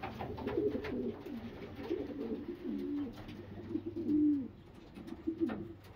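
Racing homer pigeons cooing in a loft: a run of low, gliding coos, partly overlapping, with the loudest, longest coo about four seconds in.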